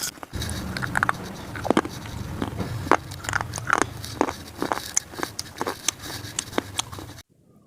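Close-miked biting and chewing of brittle eating slate: sharp, irregular crunches and snaps over a steady low hum. The sound cuts off abruptly near the end.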